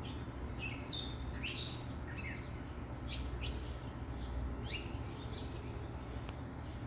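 Small songbirds chirping: a scattered series of short, quickly falling chirps, several in quick succession, over a steady low background rumble.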